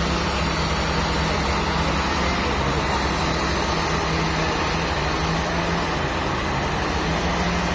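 A machine running steadily at constant speed, with a low hum over a wash of mechanical noise.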